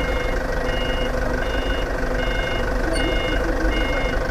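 Reversing or travel alarm on heavy machinery, a two-tone beeping that repeats evenly, over the steady hum of a running diesel engine.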